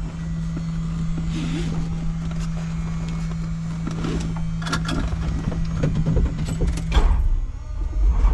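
Small tour helicopter running before the flight: a steady low hum over a low drone, with scattered clicks and knocks. About seven seconds in, the hum stops and the low rumble grows louder.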